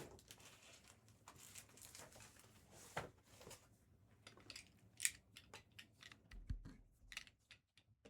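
Faint crinkling and tearing of the plastic wrap and cardboard packaging on a sealed box of trading cards as it is opened, with scattered light clicks and a couple of sharper snaps about three and five seconds in.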